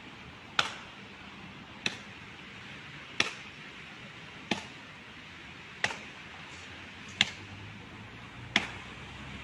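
Axe blows chopping into a fallen tree, one sharp knock about every 1.3 seconds, over a steady outdoor hiss.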